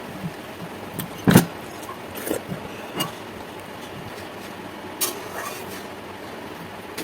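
Close-up eating sounds: a handful of short crunches and smacks, the loudest about a second and a half in, over a steady background noise.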